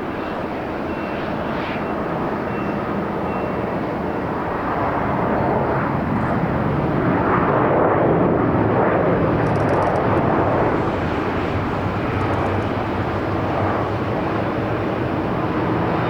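Jet airliner on landing approach, its engine noise swelling to a peak about halfway through and then easing slightly.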